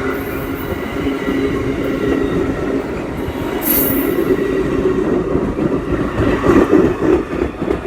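Train running on the rails: a steady rumble with thin, held ringing tones above it and a brief high hiss a little before halfway, growing louder near the end.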